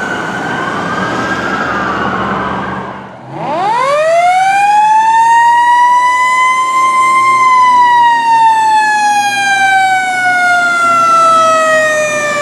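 Fire engine sirens: two wailing siren tones overlap for the first few seconds and stop. Then a mechanical siren winds up quickly to its peak and slowly coasts down in pitch.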